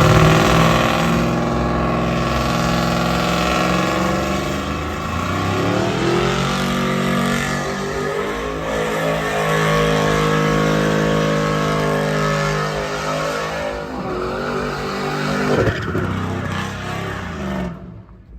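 Pickup truck engine revving hard and held at high revs, its pitch climbing and dipping several times, then cutting off suddenly near the end.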